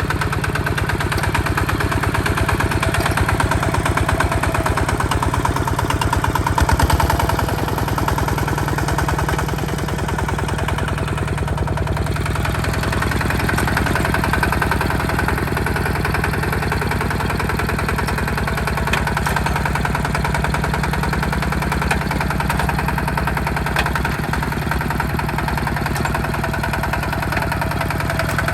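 Hinota HG Gold 155 DI tractor's diesel engine running steadily with a rapid, even firing beat, rising briefly in level about seven seconds in.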